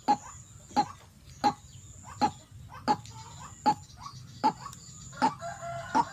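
White-breasted waterhen calling: a sharp clucking note repeated steadily, about every 0.7 s, with a short run of falling notes near the end.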